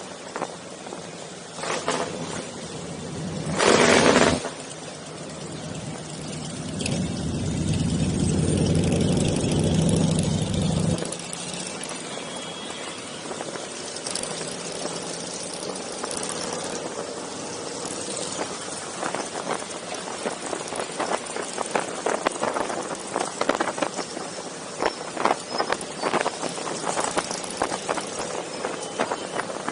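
Motorcycle engines running on a group ride, with one machine's engine swelling loud about seven seconds in and dropping away suddenly near eleven seconds. A short, loud rushing burst comes about four seconds in, and later there is steady background noise with scattered rattles.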